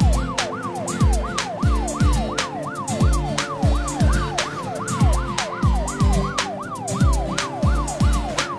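Police car siren yelping, its pitch sweeping up and down quickly about two to three times a second, over background music with a steady bass beat.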